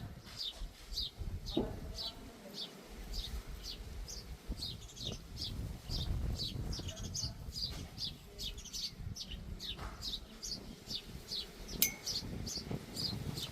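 A small bird calls steadily, repeating a short high chirp that falls in pitch, about two to three times a second, over a low rumble. A sharp click sounds once near the end.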